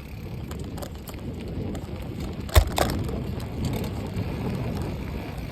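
Bicycle riding noise: a steady low rumble of wind on the microphone and the bike rolling along, with two sharp knocks in quick succession about halfway through.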